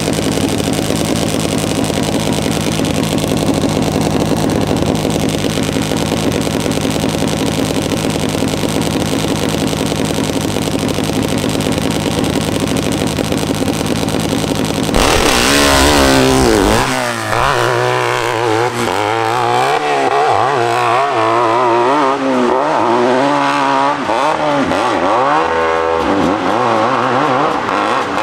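Custom hillclimb motorcycle's engine running steadily at the start line, then launching about fifteen seconds in with a sudden burst of throttle. It revs up and down as the bike climbs the hill.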